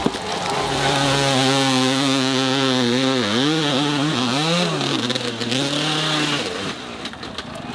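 Dirt bike engine running at high, steady revs. The revs drop and pick up again twice in the middle, then the engine cuts out about six and a half seconds in.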